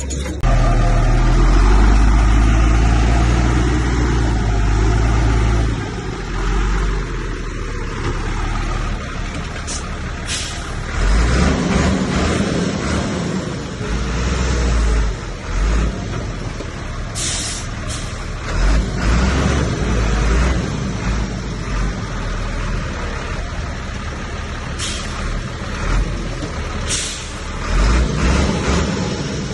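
Heavy diesel earthmoving machinery running under load, its deep engine rumble swelling and easing. Several short sharp hisses or clanks come over it.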